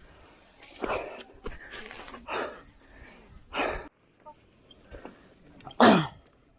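A person breathing hard: about five sharp, loud breaths, spaced a second or more apart, the last one near the end the loudest.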